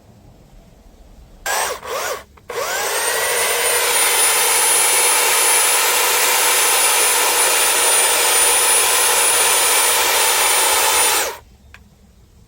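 Electric power tool working wood. It is triggered twice briefly, then spins up with a rising whine and runs steadily for about nine seconds before cutting off suddenly.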